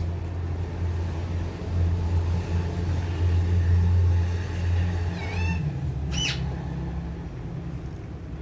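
A steady low mechanical rumble, like a running engine, swells between about two and five seconds in. About six seconds in comes a short, sharp sweeping call from an Alexandrine parrot, just after a few faint chirps.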